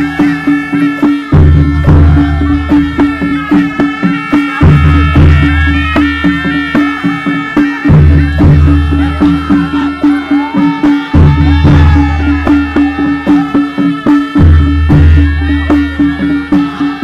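Nepali folk music: a steady drone under a deep bass note that comes back about every three seconds, quick percussion ticks, and a melody line gliding above.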